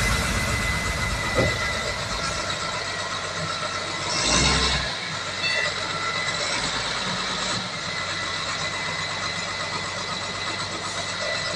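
Heavy construction machinery running: a steady diesel engine sound, with a brief louder surge about four seconds in.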